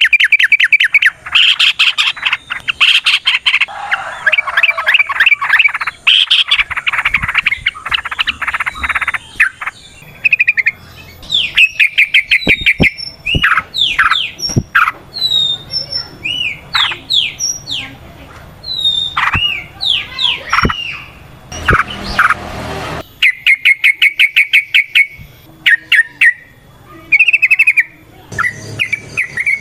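Yellow-vented bulbuls (trucuk) calling: long, fast chattering runs of notes at first, then scattered sharp whistled chirps that rise and fall, with a short harsh burst and another fast run near the end.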